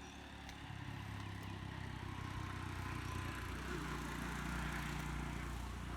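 An engine running, growing louder, with its pitch stepping up about half a second in and shifting again around three and a half seconds in.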